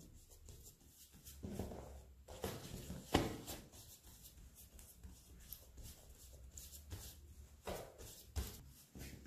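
Hands pressing and stretching pizza dough on a floured worktop: faint, irregular soft pats and thuds with light rubbing between them.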